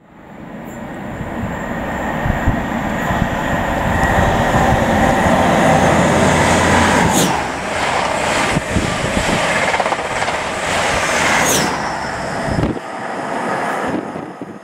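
Class 43 HST with Paxman VP185 engines running through at speed. The power car's engine sound builds as it approaches, then the coaches rush past with steady wheel-on-rail noise and two brief high squeals. The low engine sound drops away about thirteen seconds in as the rear power car passes, and the noise fades.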